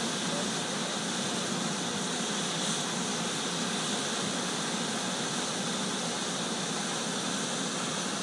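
Iron-melting furnace running during a tap, a steady rushing noise with no breaks.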